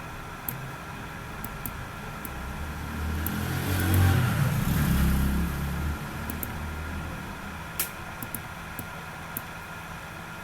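A vehicle passing by: a low rumble that swells, peaks about four seconds in and fades two seconds later, over a steady background hum, with a few scattered sharp clicks.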